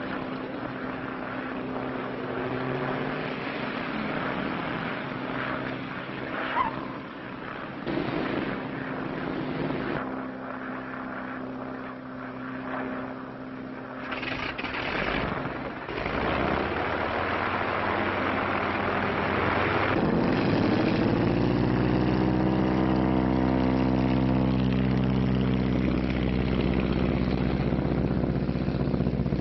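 Propeller airplane engines droning, with several abrupt changes as shots cut. About two-thirds of the way through, a louder engine rises in pitch and then runs steadily.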